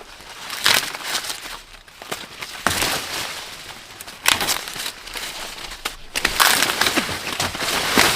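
Dry corn plants, leaves and husks rustling and crackling as they are handled, with a sharper crunching snap every second or two.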